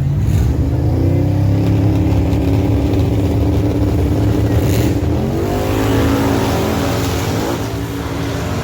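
Drag-race car engine revving hard. Its pitch climbs about a second in, holds high, then climbs again around five and a half seconds over a steady low rumble.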